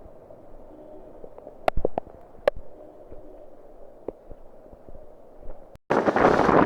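A few sharp clicks over a faint background. About six seconds in, the audio cuts suddenly to loud wind buffeting the microphone.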